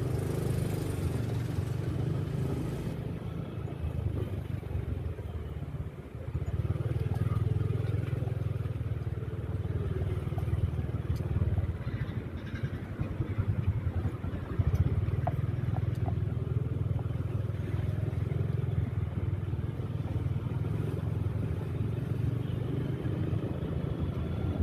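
Motorcycle engine running as the bike is ridden through traffic, a steady low rumble that dips briefly about six seconds in and then picks up again.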